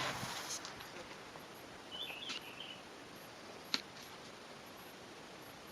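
Quiet outdoor background with a short warbling bird chirp about two seconds in and a single sharp click near the middle. A hiss cuts off about half a second in.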